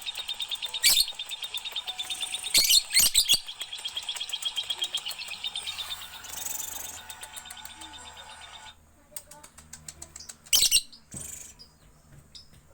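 A three-month-old lovebird chirping in a fast, even run of high chirps that breaks off about two-thirds of the way in, leaving a few scattered, quieter chirps. Several short, sharp, louder sounds cut in along the way.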